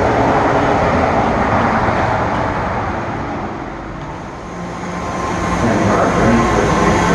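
BART rapid-transit train running on the rails: loud rolling rumble that fades to a low about four seconds in, then builds again.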